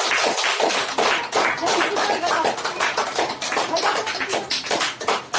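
Hands clapping, many quick, irregular, overlapping claps like a group applauding, with voices mixed in.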